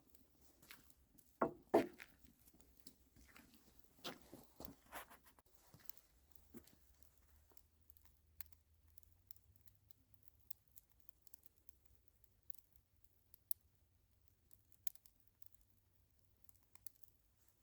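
Faint scattered clicks, knocks and rustles of handling, with a few louder knocks in the first five seconds and then only sparse small ticks.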